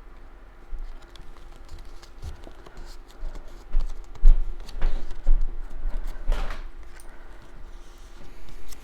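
Cardstock pieces being handled on a work table: light rustles, small taps and a few brief scratchy scrapes, with occasional low bumps.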